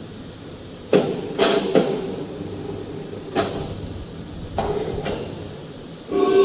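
A series of sharp knocks and clanks, three in quick succession about a second in and two more spaced a second apart, from heavy machine parts being handled during installation. Near the end comes a brief pitched tone with overtones.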